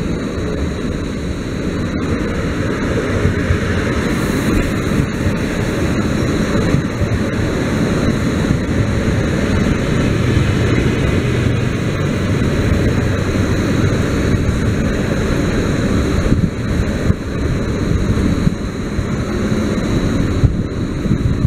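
Stadler FLIRT electric multiple unit (PKP Intercity class ED160) arriving and rolling past along the platform: a steady rumble of wheels and running gear.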